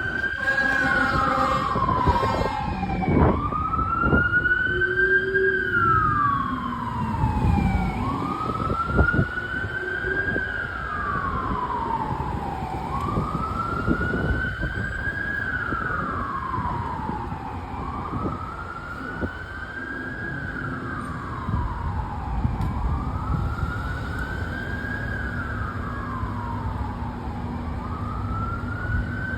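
Fire apparatus siren on wail, rising and falling slowly about every four to five seconds over the truck's engine and road noise. A horn blast and a second siren overlap it in the first couple of seconds.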